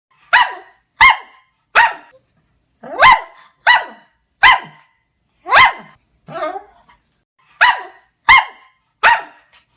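Pekingese dog barking: about eleven sharp single barks with short, uneven silent gaps between them, and one softer bark about six seconds in.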